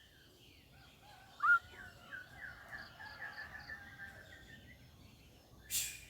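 White-rumped shama (murai batu) singing: a sharp rising note about one and a half seconds in, then a quick run of repeated chirps, about five a second, for a few seconds. Near the end comes a short, harsh hissing burst.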